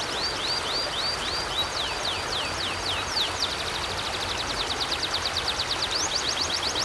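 River water flowing steadily, with a small bird singing long runs of repeated high chirps that speed up into a rapid trill about halfway through.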